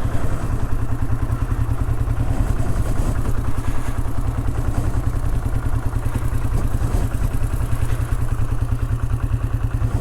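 Honda CL450 parallel-twin motorcycle engine running steadily as the bike is ridden along the trail.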